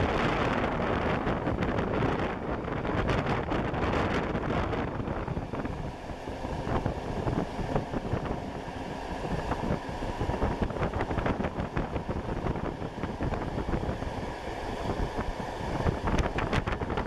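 Running noise of a passenger train heard from aboard: a steady rumble and rush of wheels on rails and passing air. Runs of short sharp clicks come from the wheels a couple of seconds in and again near the end.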